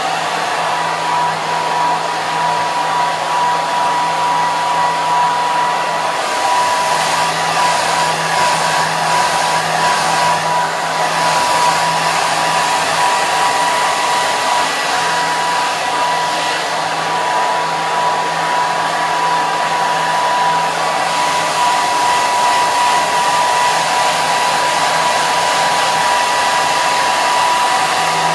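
Hair dryer running steadily: a constant rush of blown air with a steady high whine from the motor and a low hum underneath.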